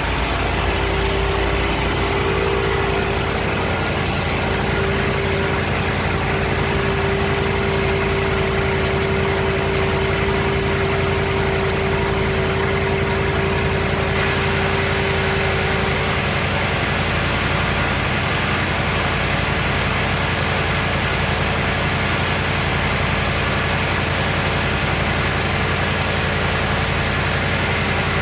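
1979 Oldsmobile Hurst W-30's V8 idling steadily as it warms up after a cold start.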